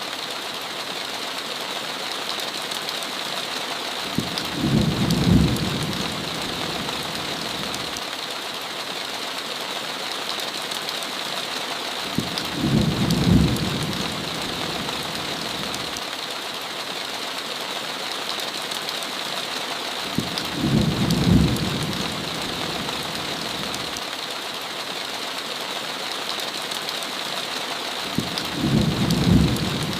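Steady heavy rain with a low rumble of thunder that swells up and fades four times, about every eight seconds.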